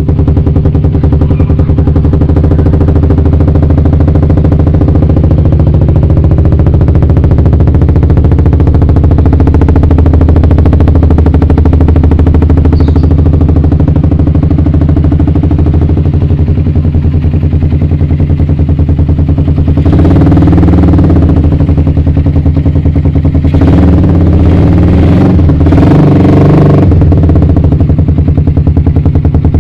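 Suzuki Satria FU 150's single-cylinder four-stroke engine idling steadily through an aftermarket DBS exhaust, then revved briefly a few times about two-thirds of the way in.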